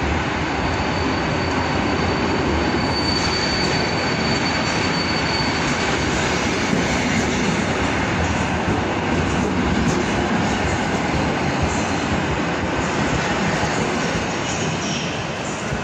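Electric multiple unit passenger train running past along the platform, a steady loud rumble of wheels and traction equipment, with a thin high whine about three to five seconds in.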